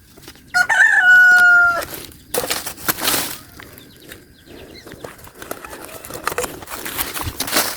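A rooster crows once, loud and held, about half a second in. Rustling and light clicks follow.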